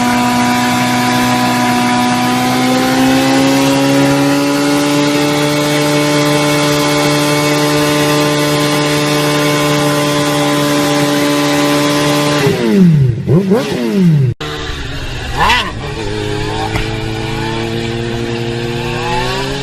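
Motorcycle engine held at steady high revs, its pitch creeping up slightly, then revved up and down several times in quick succession. After an abrupt cut, a motorcycle engine runs at lower revs.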